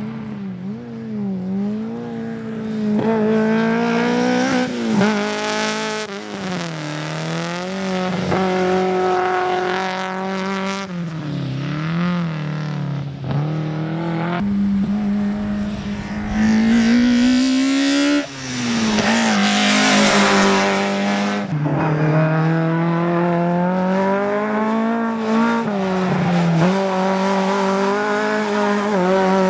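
A competition car driven hard through a slalom course: the engine's revs rise and fall every second or two as the driver lifts and accelerates between cones, with a longer climb in revs in the last third and tyres squealing at times.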